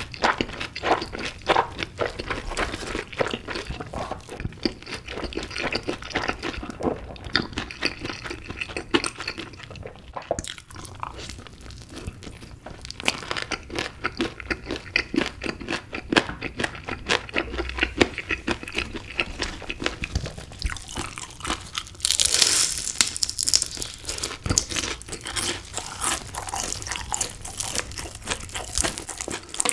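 Close-miked chewing of honey-glazed fried chicken: wet mouth sounds and crunching of the crisp coating. A louder stretch of crackling comes a little past two-thirds of the way through. Near the end, gloved hands pull a piece of chicken apart.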